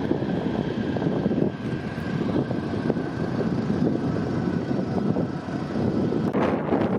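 Airliner's engines rumbling with a faint steady whine that slowly fades, in strong wind. Near the end a gust hits the microphone.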